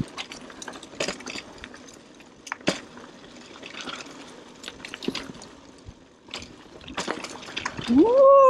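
Scattered irregular clicks and crackles, then near the end a loud, drawn-out voice call that rises and then falls in pitch.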